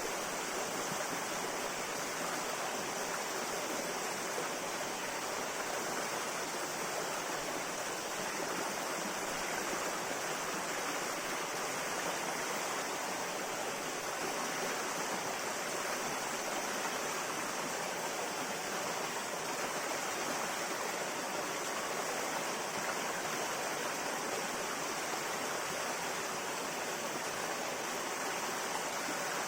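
River water flowing over rocks in a steady, even rush, with no changes.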